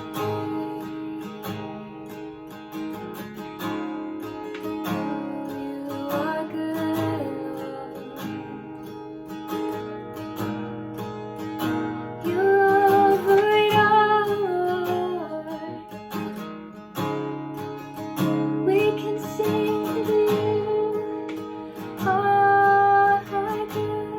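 Instrumental music led by an acoustic guitar, strummed and picked, with a melody line above it that grows louder about halfway through and again near the end.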